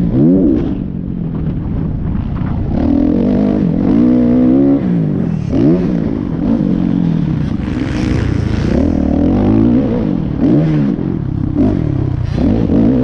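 Motocross bike engines revving hard, the pitch climbing and dropping again and again as the riders open the throttle and shift, with more than one engine heard at once at times. A brief hissing burst comes about eight seconds in.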